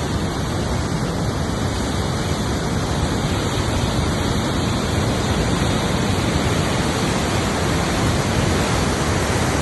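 Swollen Teesta River in flood, its fast brown water rushing with a steady, unbroken roar.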